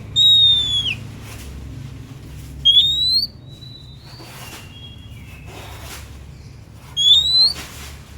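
Oriental magpie-robin (kacer) singing: loud clear whistled notes, one falling just after the start and two rising ones about three and seven seconds in, with softer level whistles between. A steady low hum runs underneath.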